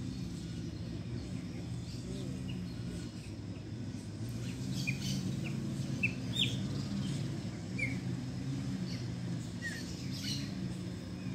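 Scattered short, high bird chirps, most of them bunched through the middle and latter part, over a steady low mechanical hum.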